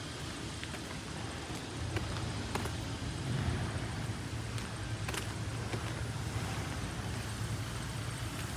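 A steady low motor hum over a background of noise, with a few faint clicks and knocks.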